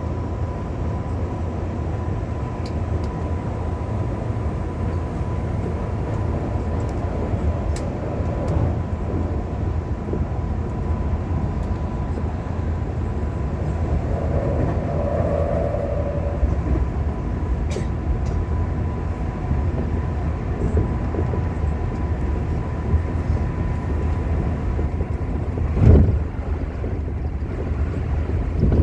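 Tokyu 5050 series 4000-subseries electric train running, a steady low rumble with a faint steady whine above it. There is a short thump about 26 seconds in.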